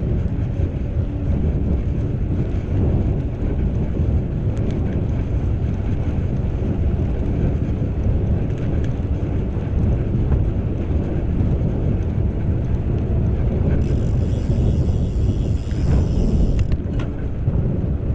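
Wind buffeting the microphone: a loud, steady low rumble with no break. A brief higher hiss joins it about fourteen seconds in.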